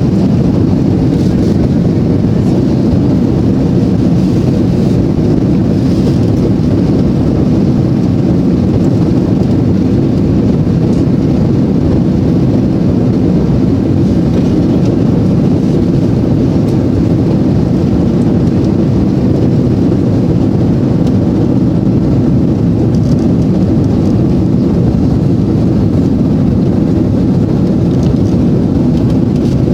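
Airbus A330 jet engines at takeoff thrust: a loud, steady, deep rumble that holds evenly throughout.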